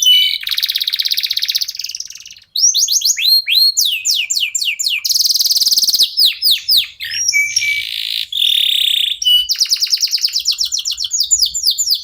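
Domestic canary singing a long, varied song, alternating fast buzzy rolls with quick runs of repeated down-slurred whistled notes, with a brief pause about two and a half seconds in.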